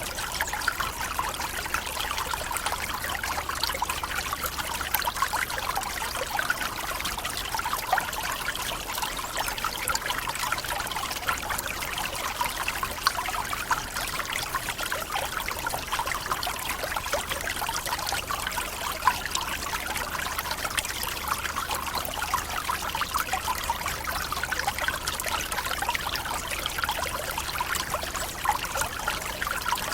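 Small forest waterfall splashing and trickling steadily, with the water spattering over rocks.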